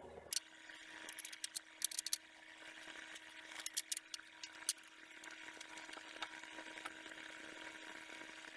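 Scattered light metallic clicks and clinks of brake bracket bolts and washers being handled and fitted, in small irregular clusters over a faint steady hum.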